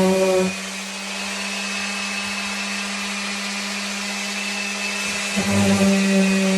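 Electric sander running, sanding the edges of a wooden shelf with a steady pitched hum. About half a second in it turns quieter and thinner, and about five and a half seconds in it comes back to full strength.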